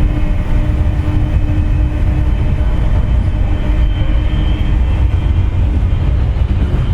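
Running sound inside a JR West 201 series electric train's motor car: a steady, loud low rumble with a whining jet sound. The whine comes from bearings pitted by electrical corrosion. A lower tone fades out partway through and a high whine rises in near the end.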